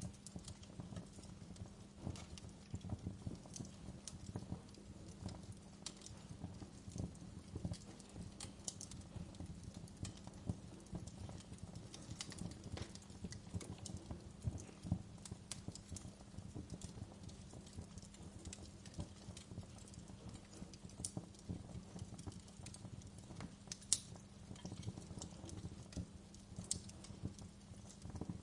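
Wood fire burning, crackling with irregular snaps and pops over a low steady rumble, with one sharper pop near the end.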